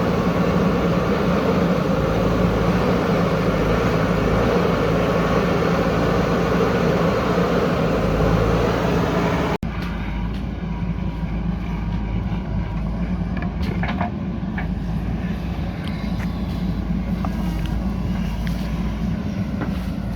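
JCB backhoe loader's diesel engine running steadily under work. About halfway it cuts off abruptly and resumes slightly quieter, with a few short knocks a few seconds later.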